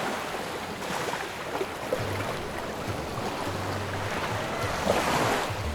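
Sea water washing and lapping, with wind buffeting the microphone in low rumbles.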